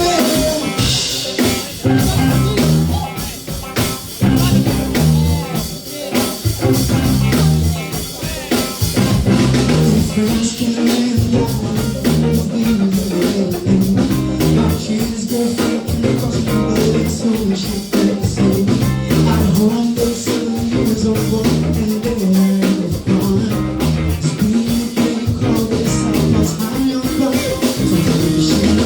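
Live band playing a groove on drum kit, bass and guitar, with a busy bass line and steady drums.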